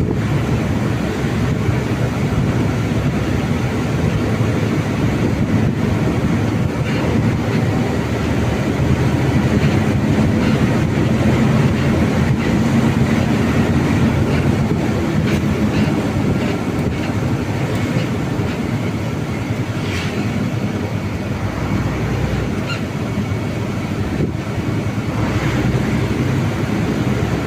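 Mitsubishi Fuso truck's diesel engine running steadily under way, with road and wind noise.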